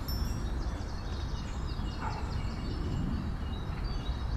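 Steady background noise with faint, short high-pitched chirps, like small birds.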